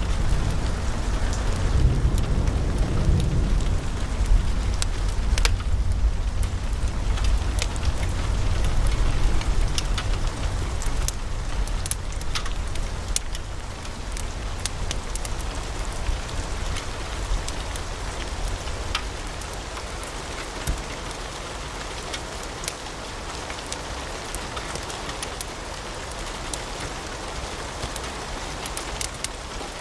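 Wood fire burning in a fireplace, with many sharp crackles and pops over a steady hiss and a low rumble of the flames. The rumble eases off about a third of the way in.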